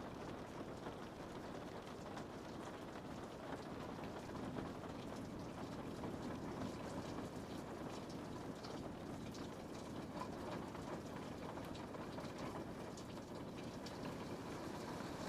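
Rain falling steadily on a window pane, a constant patter with scattered sharper drop ticks.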